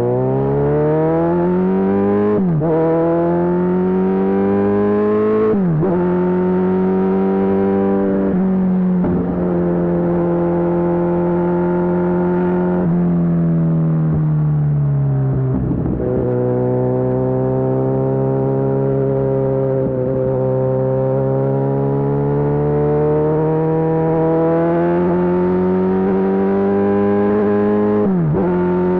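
Kawasaki Z1000SX inline-four engine through a Lextek full exhaust, accelerating with quick upshifts about two and a half and five and a half seconds in. The note then holds steady and falls slowly as the bike eases off, climbs again, and drops with another upshift near the end.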